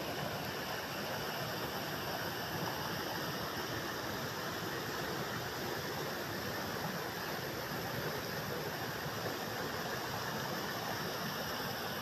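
Forest stream running, a steady murmur of flowing water with no break or change.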